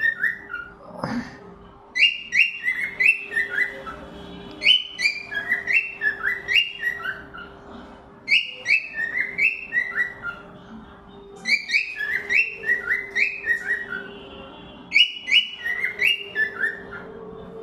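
Cockatiel whistling a repeated phrase of short falling notes, about five notes at a time, starting the phrase again roughly every three seconds.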